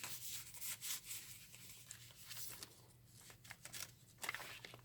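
Paper and card pages of a handmade junk journal rustling and rubbing as they are handled and turned, in quick scratchy strokes, quieter for a moment around three seconds in.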